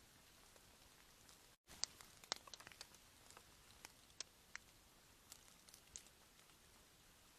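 Near silence: faint hiss with scattered, irregular small ticks and clicks, a few a second, busier for a second or so after a brief dropout.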